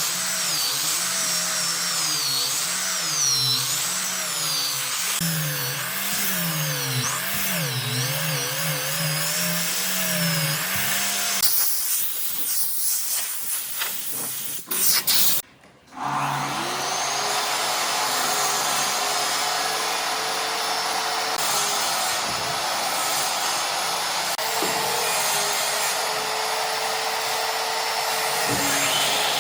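Electric power tool working wood, its motor pitch wavering up and down under changing load. Partway through there is a brief break, then a tool runs at a steadier pitch.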